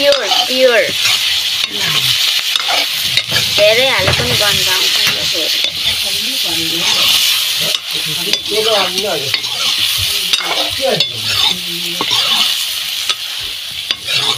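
Chicken pieces sizzling steadily in hot oil in a black iron wok, stirred with a long metal ladle that scrapes and knocks against the pan over and over.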